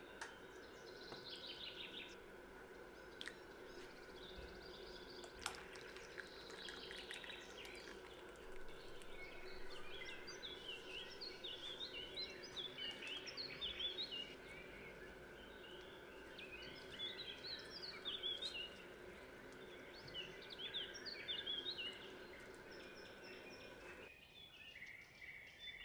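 Birds chirping, many short quick calls, over a steady faint hum that stops near the end.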